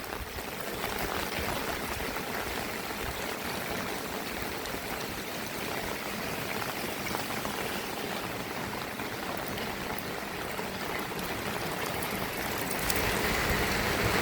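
Heavy rain falling steadily, an even hiss of water, getting a little louder near the end.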